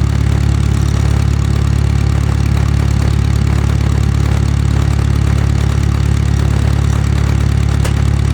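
Farmall MD's four-cylinder engine idling steadily on its gasoline starting system, warming up before it is switched over to diesel.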